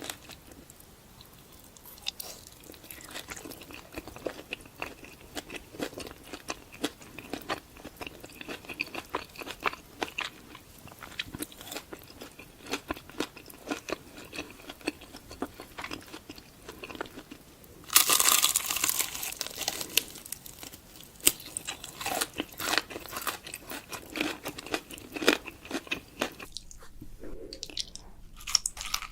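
Close-up eating sounds: crunchy bites and chewing, a rapid string of crunches. About two-thirds of the way through comes a louder noisy burst lasting a couple of seconds.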